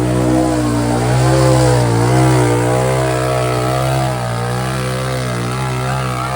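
Mud-racing ATV engine held at high revs, loud, its pitch wavering slightly up and down; it eases off a little about four seconds in.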